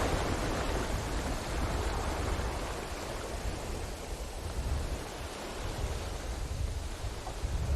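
Ocean waves breaking on a beach: the wash is loudest at the start and eases off as the water draws back, with a steady low rumble of surf beneath and a slight swell again near the end.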